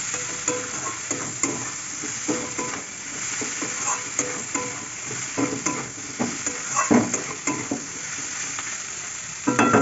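Chopped vegetables sizzling in oil in a kadai, with a steel spatula scraping repeatedly against the pan as they are stirred and tossed. Just before the end comes a brief metallic ringing.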